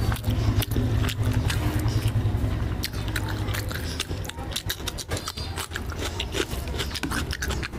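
Close-miked eating by hand: chewing and crunchy bites of fried tilapia and raw cucumber, with many sharp wet clicks and crackles. A steady low hum runs underneath.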